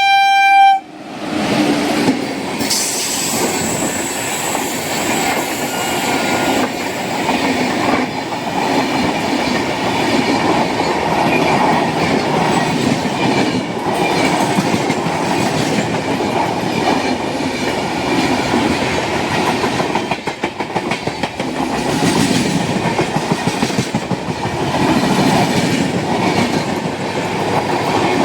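Indian Railways express train: its horn sounds as one clear note that cuts off about a second in. The train then runs on at speed, with a steady rush of wheel and rail noise and clickety-clack over the rail joints.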